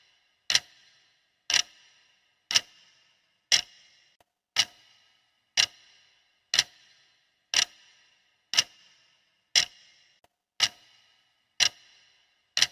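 Clock ticking steadily, one sharp tick each second, each with a brief ringing tail.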